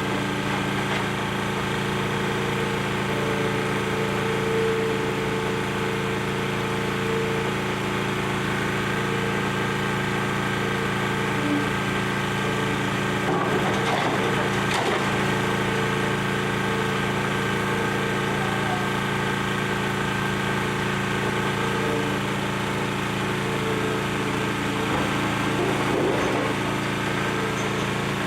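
Excavator's diesel engine running steadily during building demolition, with crunching and splintering of broken debris about halfway through and again near the end.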